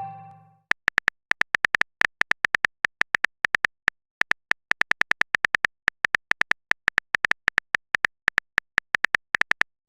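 Phone keyboard typing sound effect: a rapid run of short, identical clicks, about seven a second, with a couple of brief pauses.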